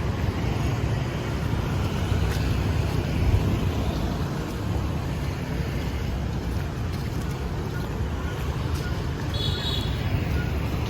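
Steady city street ambience: a low rumble of road traffic, with a brief high warbling chirp about nine seconds in.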